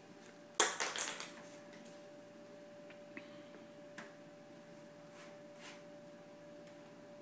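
Fridge magnets handled against a refrigerator door: a quick cluster of clicks and clatter about a second in, then single clicks later. A faint steady hum runs underneath.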